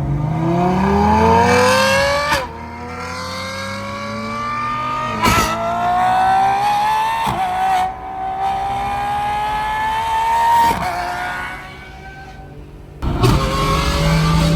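Lamborghini Revuelto's V12 through a straight-through race exhaust, accelerating hard: the revs climb, drop with an upshift about two seconds in, then climb on through further gears with sharp shift cracks. Near the end it eases off, then comes back loud with a crack.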